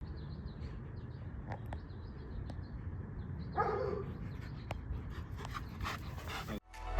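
Dog whining in short, high, faint whimpers, with one louder cry about three and a half seconds in; the sound cuts off just before the end.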